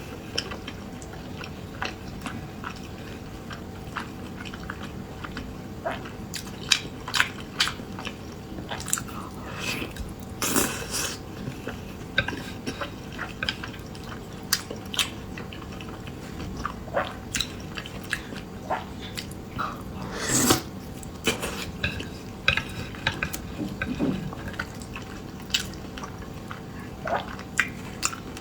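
Close-miked eating: irregular wet chewing and biting clicks and smacks, with two louder rushing sounds, about ten and twenty seconds in.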